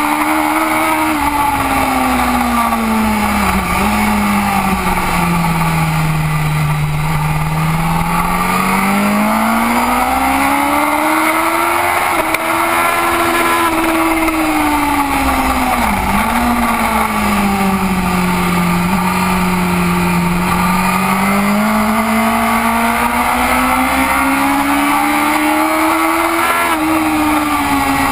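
BMW race motorcycle's engine under racing load, close up. Its pitch falls as the bike slows for a corner, then climbs as it accelerates out, with brief drops at the gear changes, twice over; wind noise rushes underneath.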